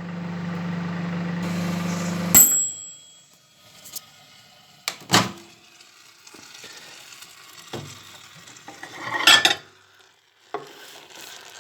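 Microwave oven running with a steady hum, heating an apple, cut off abruptly about two seconds in by a sharp click. After it, a few separate knocks and a brief rustle of handling.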